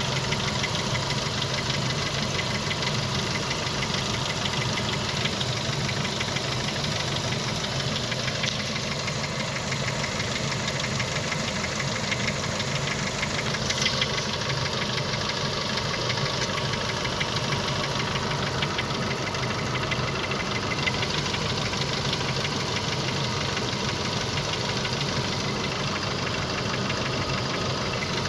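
Renault F4R 2.0-litre 16-valve four-cylinder petrol engine running steadily while hot, with a knock coming from the engine. The knock shows up at operating temperature.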